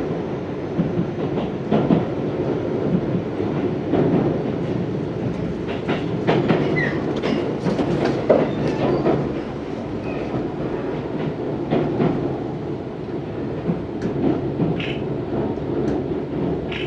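Tobu 634 series electric train running, with a steady rumble and irregular clacks of the wheels over rail joints. Brief high wheel squeals come about seven seconds in and again near the end.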